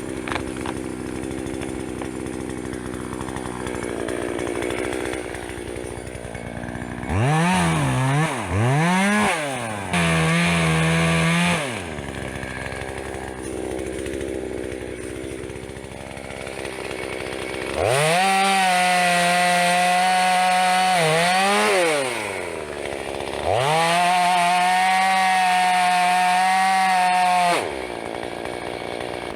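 Two-stroke chainsaw idling, revved in three short blips, then run up to full throttle and held there for about four seconds, twice, with a brief dip between the two long runs.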